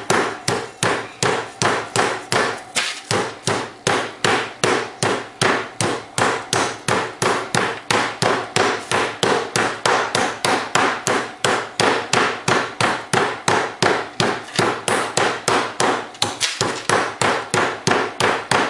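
Flat face of a meat tenderizer pounding a butterflied chicken breast wrapped in plastic wrap on a countertop, with steady, even blows about three to four a second.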